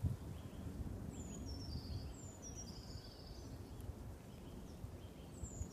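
Outdoor ambience: a low, steady background rumble with a bird calling over it, thin high notes that fall in pitch, several in quick succession about a second in and one more near the end.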